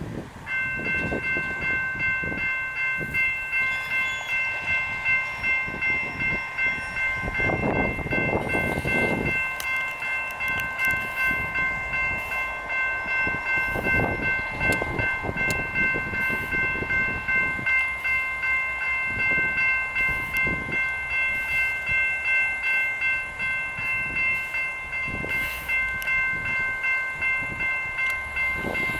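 Railroad crossing electronic bell (GS Type 2 e-bell) starts ringing about half a second in and keeps ringing in an even repeating pattern. A few louder rumbling noises rise and fade under it.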